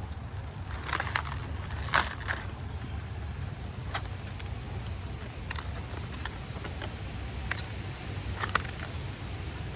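Scattered sharp snaps and crackles of garden plants being handled during harvesting, a few close together around one and two seconds in and again near the end, over a steady low rumble.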